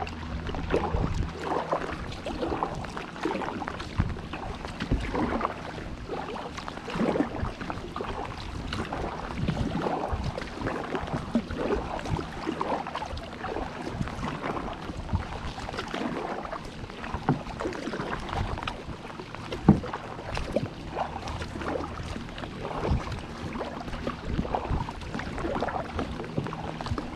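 Kayak on choppy lake water in rising wind: irregular splashing and slapping of water against the hull and paddle, over a steady rush of wind.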